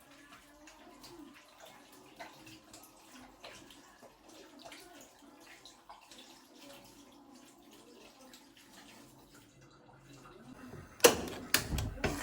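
Faint kitchen sounds of water and small clicks as food is washed or handled, then a few loud knocks or clatter near the end.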